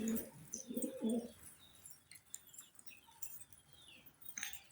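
Domestic pigeon cooing in a few short, low calls during the first second and a half, followed by faint, high squeaky cheeps from young pigeons begging to be fed.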